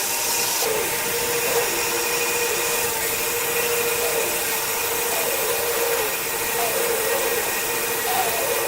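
A woodworking power tool running steadily with a loud hiss, its tone wavering slightly.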